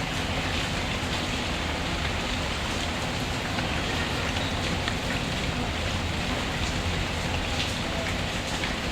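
Steady rain falling, with scattered light ticks of drops, mixed with a wood fire crackling in a fireplace.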